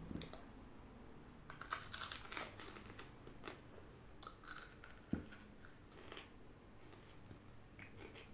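Chewing and crunching of raw bitter gourd (karela), with irregular crisp crunches; the loudest cluster comes about two seconds in.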